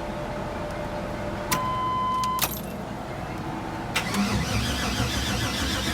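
A click and a one-second beep, then about four seconds in the starter cranks the swapped 6.0 L LS V8 with a steady, even rhythm, the engine turning over without catching.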